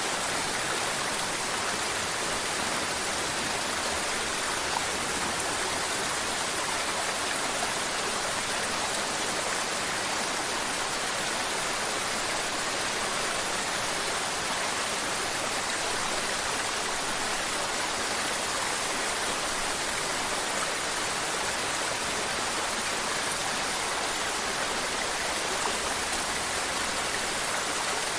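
A mountain river's water rushing and babbling over rocks, a steady, even hiss of running water.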